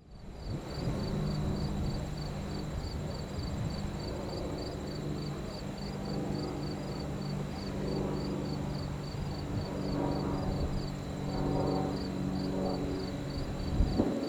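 Distant jet airliner engines humming low and steady, swelling a little in the second half, with insects chirping in a steady pulse about three times a second.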